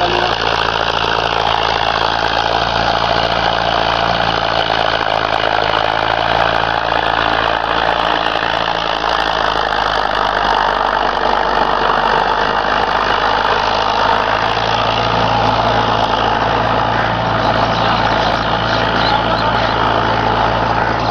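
Preet tractor's diesel engine running steadily while pulling a 21-tine plough through the field. Its low note weakens for a few seconds midway, then comes back.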